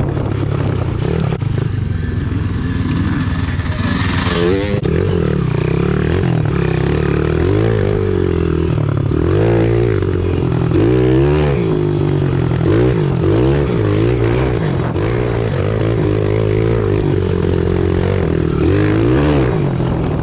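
Small single-cylinder pit bike engine ridden through mud, its pitch rising and falling again and again as the throttle is opened and closed. A short rush of noise comes about four seconds in.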